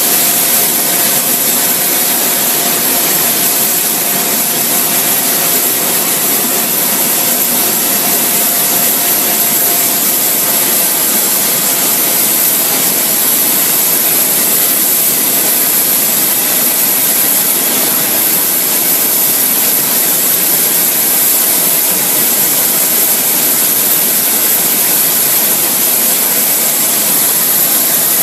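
Airbus A380 turbofan engine running steadily during a ground engine test: a loud, even rush with a steady high-pitched whine above it.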